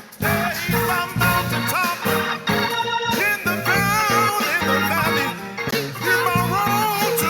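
Live gospel worship music led by an organ in the style of a Hammond, over a steady bass line.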